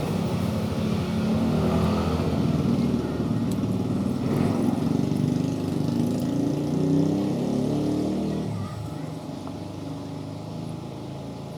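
A motor vehicle's engine running and revving close by, loudest for the first eight seconds, then fading away.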